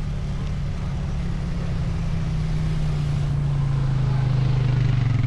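A motor engine drones steadily, its low pitch sinking slightly as it grows a little louder.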